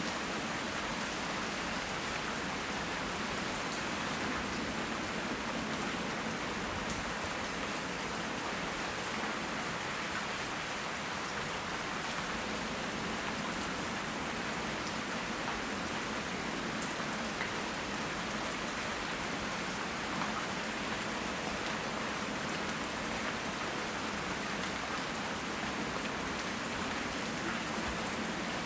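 Steady rain falling, an even hiss with scattered faint ticks of drops striking.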